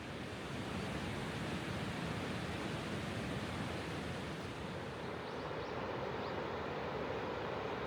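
River water rushing and spilling over a stepped, rocky riverbed: a steady, even rush.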